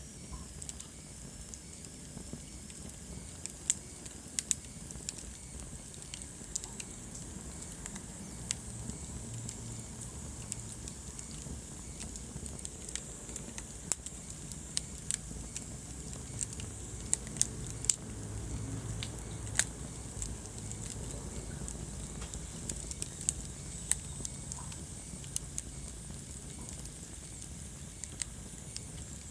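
Wood fire burning in a fireplace: a steady low rumble of flames with irregular sharp crackles and pops from the burning logs, a few of them louder snaps.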